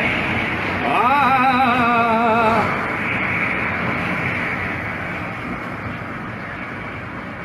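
Typhoon wind blowing hard against the microphone. About a second in, a wavering tone rises and holds for about two seconds before fading.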